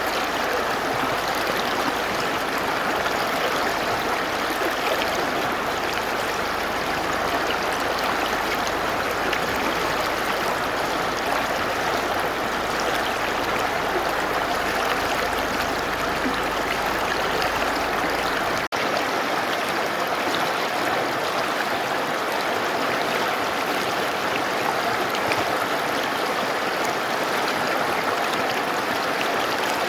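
Mountain river rushing steadily over rocks, an even, unbroken water noise. About two-thirds of the way through it drops out for an instant, and the deep rumble underneath is gone after that.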